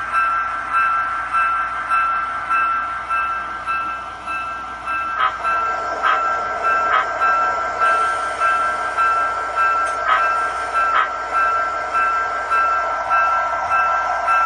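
QSI Titan-U DCC sound decoder playing diesel locomotive running sound through the speakers of a model EMD DD40X, a steady rhythmic throb over a high steady tone. From about five seconds in a rougher rushing layer joins, with a few sharp clicks about a second apart.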